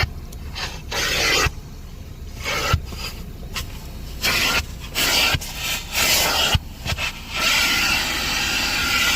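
A car wash vacuum nozzle sucking and scraping over a carpet floor mat, its hiss cutting in and out as it is pushed and lifted, with a few light knocks.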